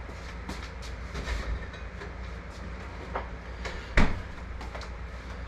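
Kitchen handling sounds over a steady low hum: small clicks and knocks of containers and utensils while milk is added to eggs for an egg wash, with one sharp knock about four seconds in.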